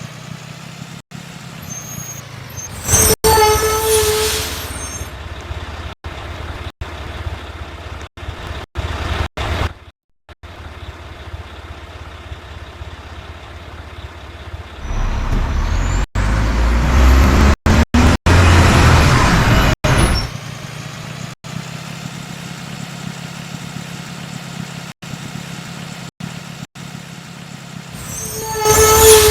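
Mack rear-loader garbage truck's diesel engine idling, rising to a loud, higher-revving run for about five seconds in the middle. A short air-brake squeal with hiss comes a few seconds in and again near the end.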